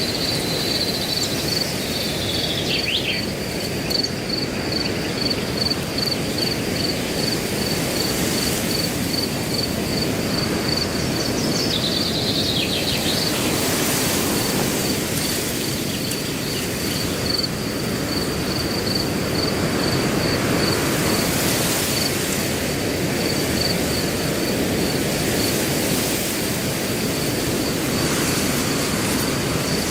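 Wind rushing steadily through grass, with a cricket chirping in an even rhythm of about two chirps a second and a bird giving short downward-sliding calls twice.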